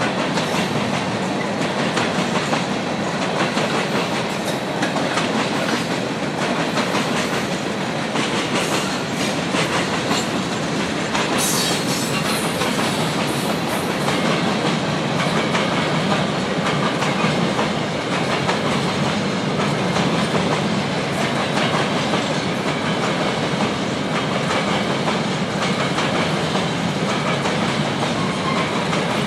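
Freight train hopper cars rolling steadily past, with the steady noise of steel wheels on rail and the clicking of wheels over the rail joints.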